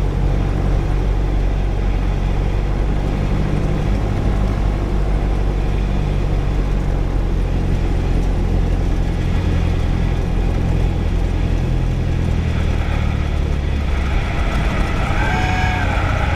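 Single-engine Cessna's piston engine running at reduced power, heard from the cockpit during the landing of a touch-and-go. Its pitch steps lower about four seconds in and again near the end.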